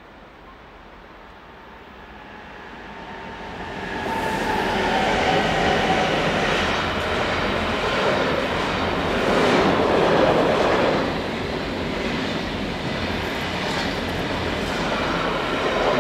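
Train approaching over the first few seconds and then passing close by, a steady loud rush of wheels on the rails.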